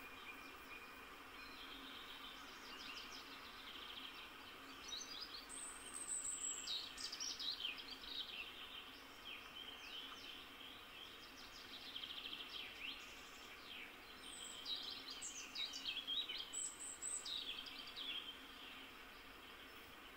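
Wild birdsong: varied short whistled phrases and trills, busiest in two stretches, about a third of the way in and again past the middle, over a faint steady hiss.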